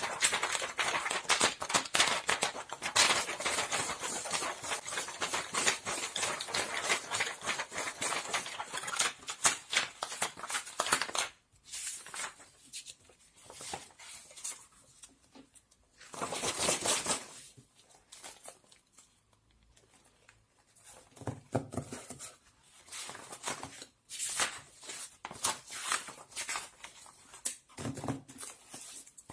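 Objects being handled at close range: a dense run of small clicks, clatter and rustling for about the first eleven seconds, then scattered light knocks and rustles with one louder rustle partway through.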